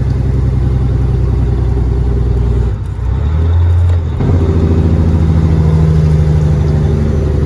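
Caterpillar 3406E inline-six diesel of a Freightliner FLD120 semi running under way, heard inside the cab. Its steady note breaks a little under three seconds in for about a second and a half, then settles into a steady note again that rises slightly.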